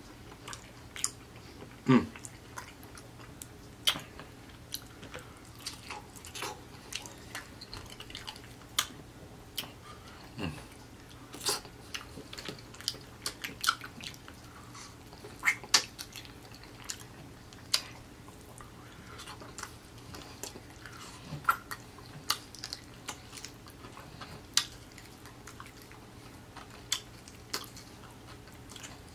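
A person chewing and biting into a juicy homemade fried chicken drumstick: irregular sharp mouth clicks and smacks.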